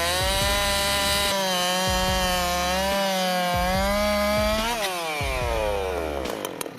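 Dolmar PS7910 two-stroke chainsaw running at full throttle while cutting wood, its pitch wavering slightly with the load. About two-thirds of the way in the throttle is released and the engine's pitch falls steadily as it winds down.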